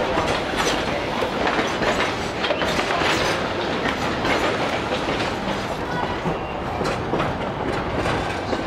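Durango and Silverton narrow-gauge train cars rolling along the track, the wheels clicking steadily over the rail joints.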